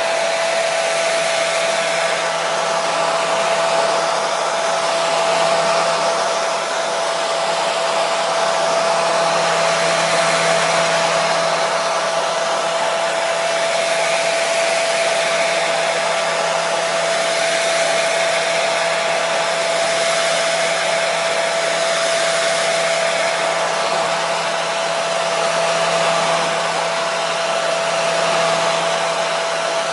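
Hair dryer running steadily: an even rushing blow with a constant motor whine.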